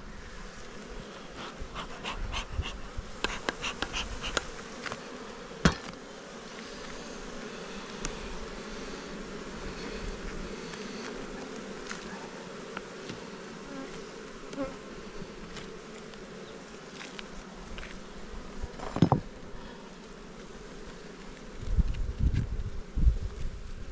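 A swarm of honeybees buzzing steadily around an opened hive during a frame-by-frame inspection. Two sharp knocks, about six seconds in and again near nineteen seconds, and a low rumble near the end.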